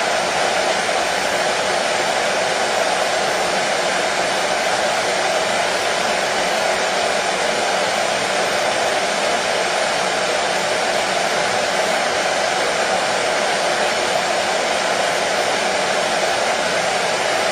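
Hair dryer running steadily, a constant even rush of air and motor noise with no change in pitch or level, played as white noise to settle a colicky baby.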